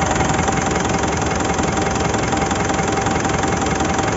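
Mitsubishi Montero's diesel engine idling steadily with an even clatter, running smoothly without misfiring now that its injectors have been recalibrated.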